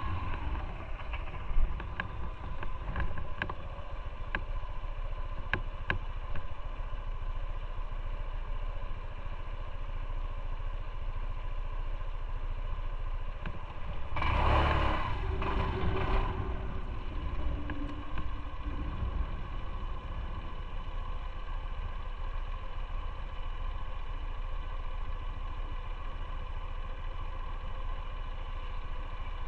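Motorcycle engine running steadily, heard from the bike itself, with a few sharp clicks early on and a louder rush of noise lasting about two seconds about halfway through.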